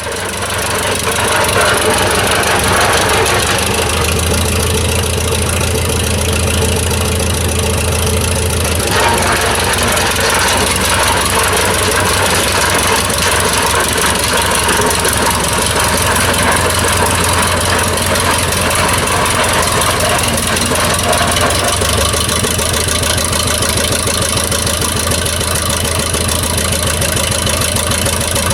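A 1934 McCormick-Deering W-30 tractor's four-cylinder engine running steadily at idle after a hand-crank cold start. Its tone shifts a few times, about 4, 9 and 22 seconds in.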